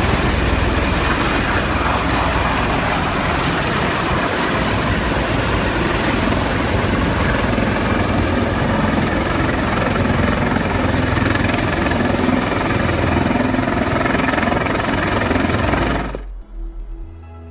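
Helicopter running, a loud steady mix of rotor and engine noise, cutting off abruptly about a second before the end.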